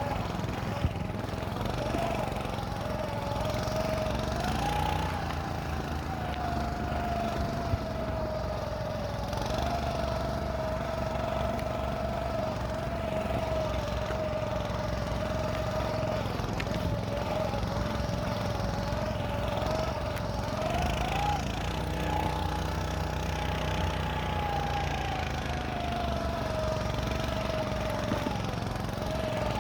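Small engine of a motorized snow scooter running under way, its pitch rising and falling a little as the throttle changes. There are two sharp knocks, about a second in and again a few seconds later.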